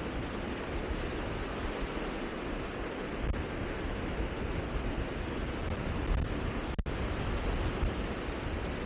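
Steady rushing wind noise, rumbling and buffeting low on the microphone, cut by a momentary dropout near the end.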